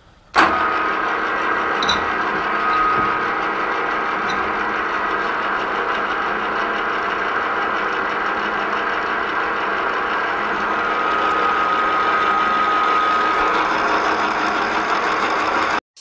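Milling machine running with a boring head and carbide boring bar cutting a bore, a steady machine noise with a thin whine through it. It starts abruptly about half a second in and cuts off sharply just before the end.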